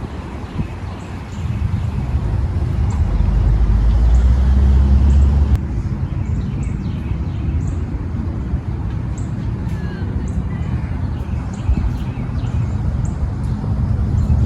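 Outdoor rumble, loudest about three to five seconds in and dropping suddenly, with a small bird chirping over and over about once a second.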